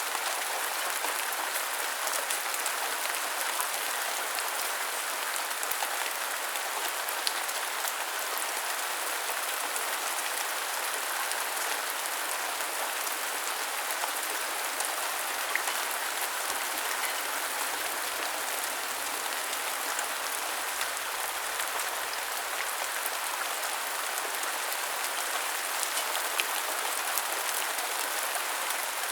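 Steady rain falling: an even hiss of drops with scattered sharper single drop ticks.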